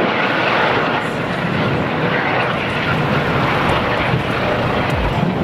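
Boeing 727-17 with its three rear-mounted Pratt & Whitney JT8D turbofans running: a loud, steady jet rush.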